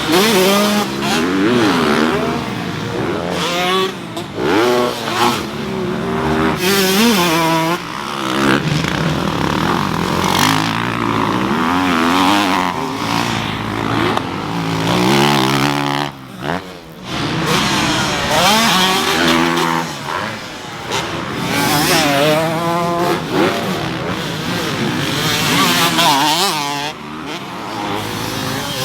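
Several motocross dirt bikes on a track, their engines revving up and down through the gears as they pass, pitches rising and falling and overlapping. There is a short lull about halfway through.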